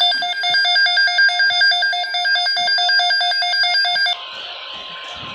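Weather alert radio sounding its alarm: a loud, rapidly alternating two-tone beeping that signals an incoming flash flood watch. It cuts off about four seconds in, leaving a fainter hiss.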